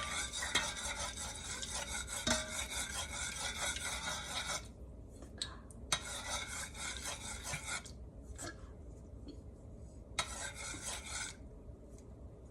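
Spoon stirring and scraping sugar as it caramelizes in hot oil in a pot, a rasping scrape for the first four or five seconds, then two shorter bouts of stirring with quiet pauses between.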